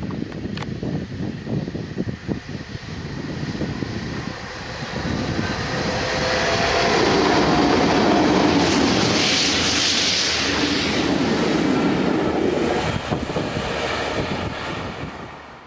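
A Railhead Treatment Train passes at speed, a pair of GB Railfreight Class 66 diesel locomotives, two-stroke V12s, top-and-tailing a rake of water-jetting tank wagons. The engines and the wheels on the rails grow louder as the train approaches. The sound is loudest for several seconds in the middle, with a strong hiss as the spraying wagons go by, then fades away quickly near the end.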